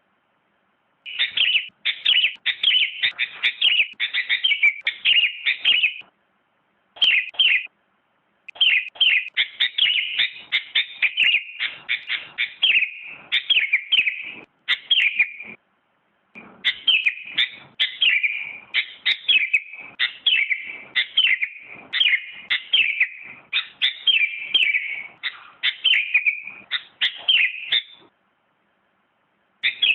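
Sooty-headed bulbul (kutilang) singing long runs of quick chirping notes, broken by a few short silent gaps.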